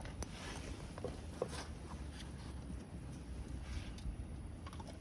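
Campfire burning quietly, with a few faint scattered crackles over a low steady rumble.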